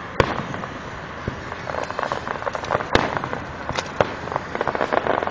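Fireworks display: sharp bangs of bursting shells, the strongest about a quarter second and three seconds in, with dense rapid crackling from glittering crackle stars through the second half.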